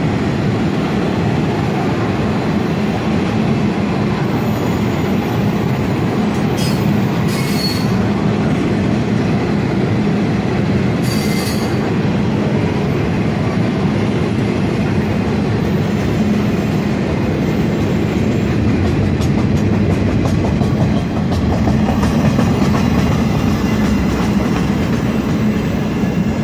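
Freight train of flatcars loaded with long welded rail rolling past: a steady rumble of steel wheels on the rails, with brief high wheel squeals around seven and eleven seconds in.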